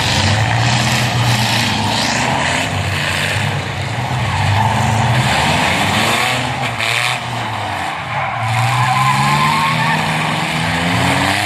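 Demolition-derby truck engines revving hard, their pitch rising and falling, with tires skidding.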